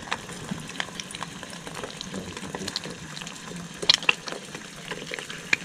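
Eggs frying in plenty of oil in a pan, a steady sizzle spattered with small crackles and a few louder pops about four seconds in and again near the end.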